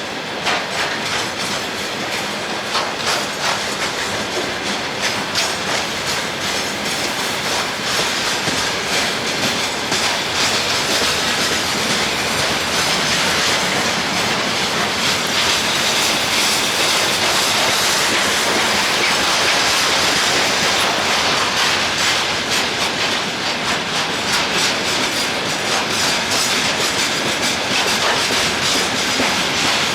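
Freight train rolling past, its wheels clicking over the rail joints in a steady clickety-clack, growing somewhat louder partway through.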